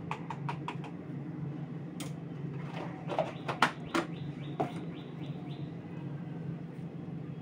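A bird chirps in a quick series of short, rising calls, about four a second, over a steady low hum. A few sharp clicks and knocks come through it, the loudest about three and a half seconds in.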